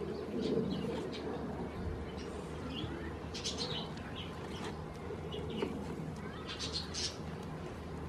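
Songbirds chirping: short high calls in scattered clusters, the loudest about three and a half and seven seconds in, over a steady low background rumble.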